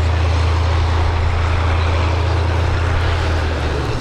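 Corsair fighters' Pratt & Whitney R-2800 radial engines, a loud steady drone with a heavy low rumble.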